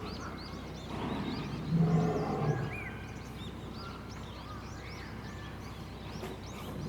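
Lion grunting twice in a low, deep voice about two seconds in, part of a roaring bout, with small birds chirping throughout.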